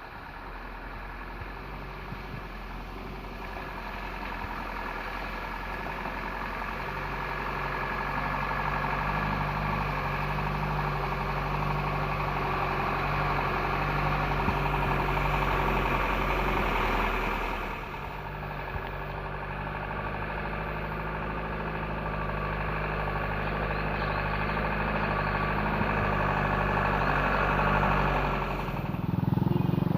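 An old truck's engine running steadily under a load of sugarcane. It grows louder as the truck approaches, drops suddenly about halfway through, then builds again.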